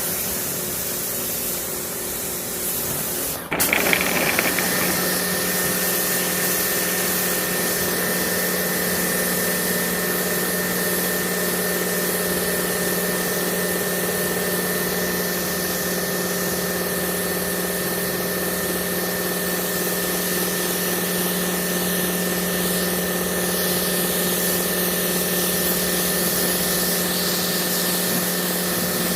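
Battery-powered Kärcher pressure washer: a sharp click about three seconds in, then its electric motor and pump start and run with a steady hum over the hiss of the water spray.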